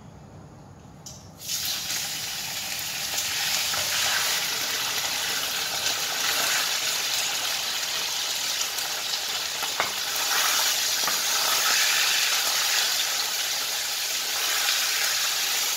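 Raw chicken breast cubes dropped into hot oil in a wok, sizzling from a sudden start about a second and a half in and keeping on steadily while they are stirred with a wooden spatula.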